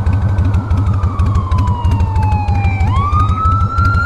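An emergency vehicle's siren wailing: its pitch falls slowly for nearly three seconds, then sweeps quickly back up and holds high near the end. Under it, a Harley-Davidson Fat Boy's V-twin idles with an even pulsing beat.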